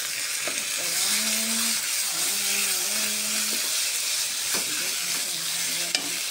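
Curry paste and raw chicken pieces sizzling in hot oil in a pan while being stirred with a wooden spatula, with a few sharp scrapes of the spatula against the pan.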